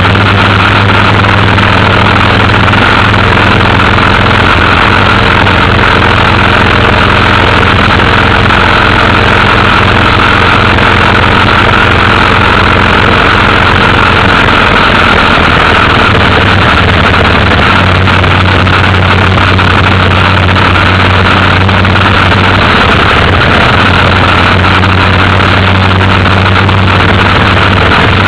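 Motorcycle engine running at a steady cruising speed during a ride, its pitch holding almost constant, under a dense rushing noise.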